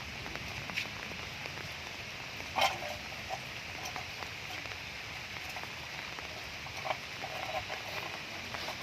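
Steady rain falling and pattering, with a few short sharp knocks or calls over it. The loudest comes about two and a half seconds in.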